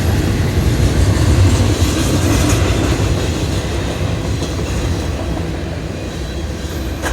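Single-stack intermodal freight train rolling past, a steady rumble of wheels on the rails that slowly grows quieter over the last few seconds.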